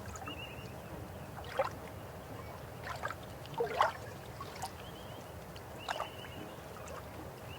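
River water flowing with a steady low rush, broken by irregular gurgling splashes about five times, the loudest a little under halfway through.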